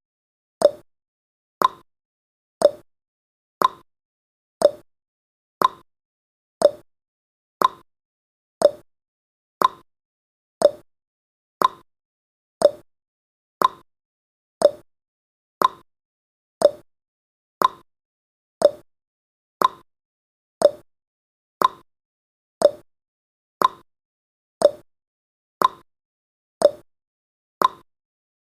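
Clock-style tick-tock sound effect of a countdown timer, one short click each second, alternating between a lower tick and a higher tock.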